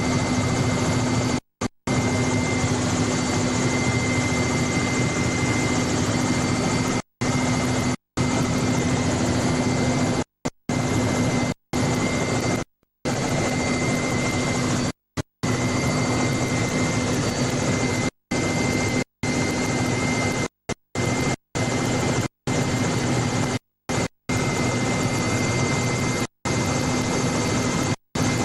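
Helicopter noise heard from aboard: a steady, loud rotor and engine noise with a constant whine. It cuts out abruptly to silence for a fraction of a second many times over, as recording dropouts.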